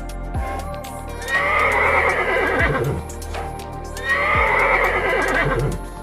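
Horse whinnying twice, each a long, quavering call lasting about two seconds, over background music with a steady low beat.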